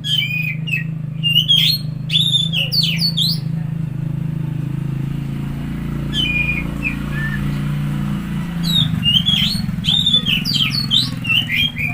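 Oriental magpie-robin (kacer) singing in three bursts of sharp, quickly sweeping notes: one at the start, a short one around six seconds in, and another from about nine seconds to the end. A steady low hum runs underneath.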